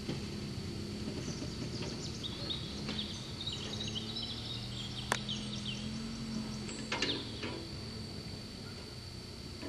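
Suzuki Samurai's engine running at low revs as a faint low steady hum, rising slightly about six seconds in, while it crawls up a rutted dirt track. Birds chirp over it, with a sharp click about five seconds in and a short rustle about seven seconds in.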